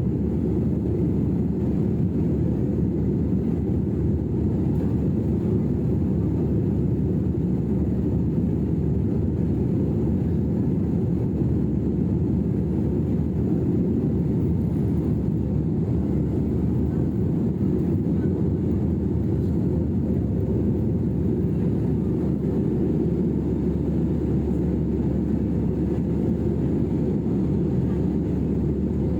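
Airliner in flight: a steady, even rumble of the jet engines and airflow, heavy in the low end, with no change through the stretch.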